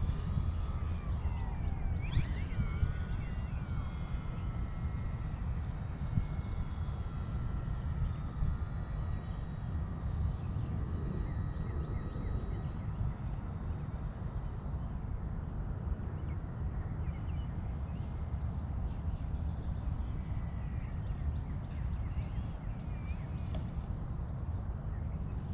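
Volantex Sabre 920 electric RC plane's motor and propeller whining in flight, the pitch jumping with throttle changes about two seconds in and again near the end, over a steady low rumble of wind on the microphone.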